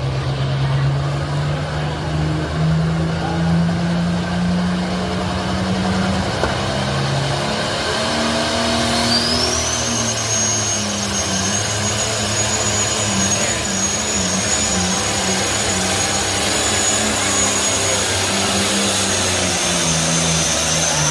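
Pulling tractor's diesel engine running hard at high revs under load during a pull, its low note climbing slowly at first. About nine seconds in, a high whine rises and then holds steady.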